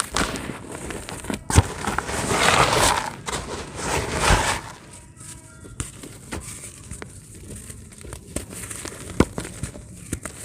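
Dry cement being crumbled, a run of small crackling clicks with two louder crunching stretches about two and four seconds in.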